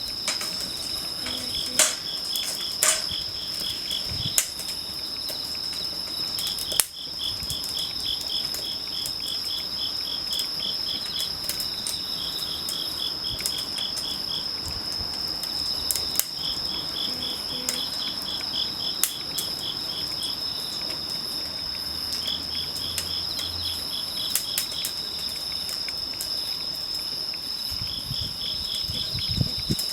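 Insects chirping steadily: one high, unbroken trill and another high chirp pulsing in short runs every few seconds. Scattered sharp pops and crackles from a wood campfire.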